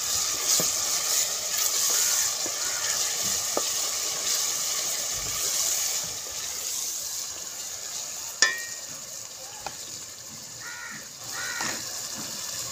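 Onions, ginger-garlic paste and whole spices sizzling in hot oil in an aluminium pot while a wooden spoon stirs them. The sizzle grows quieter about halfway through, and a single sharp knock comes about two-thirds of the way in.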